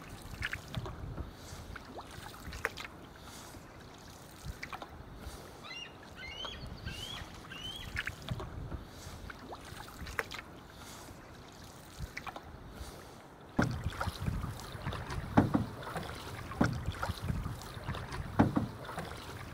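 Canoe paddle strokes and water splashing and lapping around the canoe, with a bird giving a short run of rising chirps about six to eight seconds in. The splashing becomes louder and busier for the last several seconds.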